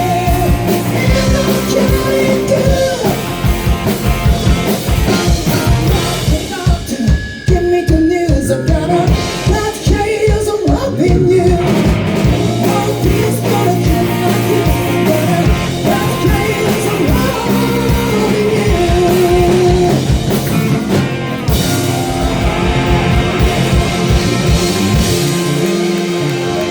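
Live rock band playing: a lead vocalist singing over drum kit, electric guitar and bass.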